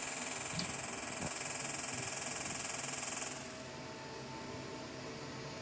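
Physical wave treatment handpiece of a beauty machine buzzing steadily, then cutting off suddenly about three seconds in, leaving the machine's faint steady hum.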